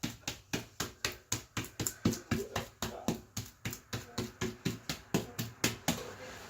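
Brush loaded with wet drywall joint compound dabbed repeatedly against a wall to stipple a crow's foot texture: quick, even, wet taps at about four a second, stopping about six seconds in.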